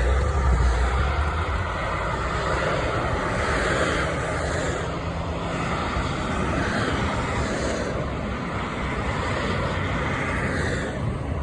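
A large vehicle's engine running with road noise, with a low rumble that is strongest in the first two or three seconds.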